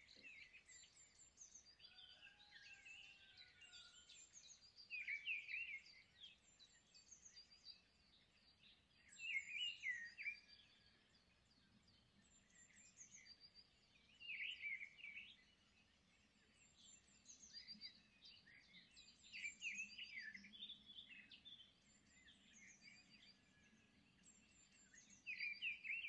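Faint bird chirping: short bursts of chirps about every four to five seconds, with thin high tweets in between.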